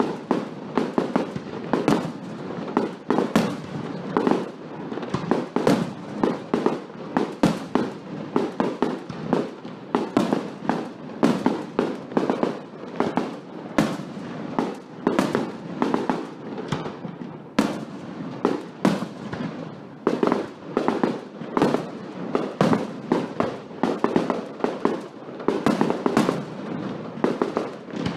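Fireworks going off in a rapid, continuous barrage: sharp bangs and pops several times a second, with no let-up.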